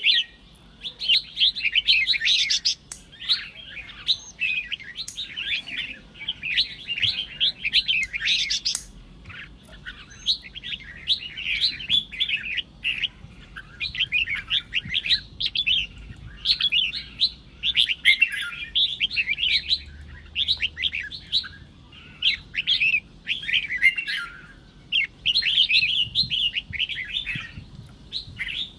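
Red-whiskered bulbul singing: quick chattering phrases of rapid notes, one after another with short pauses.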